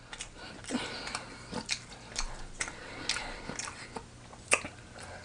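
Close-up chewing of a bite of sandwich: wet mouth smacks and soft clicks at an uneven pace, a few a second, with one sharper smack about four and a half seconds in.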